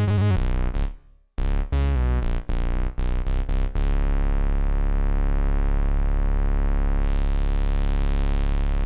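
Ad-vantage 03M DIY analogue synthesizer playing a run of short, detached low notes, with a brief gap about a second in. About four seconds in it settles into one held low note, steady and rich in overtones, which turns brighter about seven seconds in.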